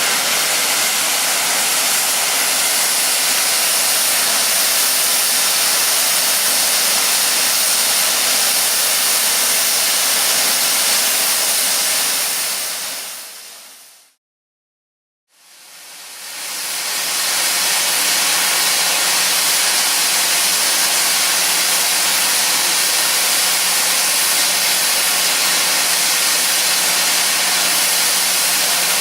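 Steady, loud hiss of escaping steam from the Peppercorn A1 Pacific steam locomotive 60163 Tornado. It fades out about halfway through, then fades back in with a faint steady low hum underneath.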